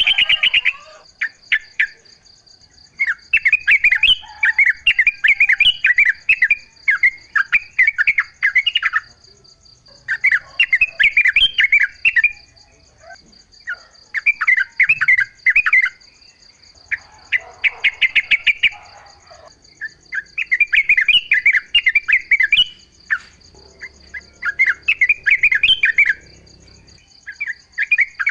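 Yellow-vented bulbul (trucuk) song: phrases of rapid, chattering notes, each lasting a second or two and repeated after short pauses. A steady high-pitched hum runs underneath.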